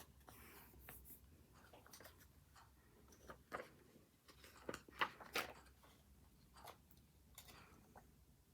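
Paper rustling with small clicks and taps as planner stationery is handled, the sharpest clicks about halfway through.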